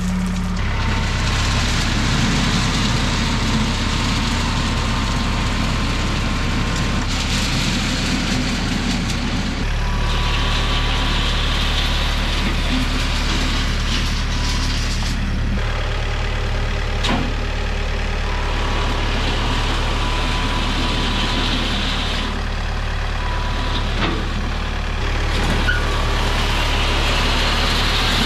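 An engine running steadily with a low hum, its sound shifting every few seconds.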